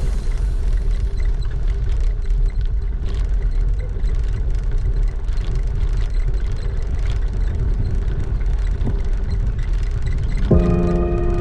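Wind rumbling on the microphone of a camera riding on a moving bicycle: a steady, heavy low rumble with faint scattered clicks and rattles. Background music comes back in near the end.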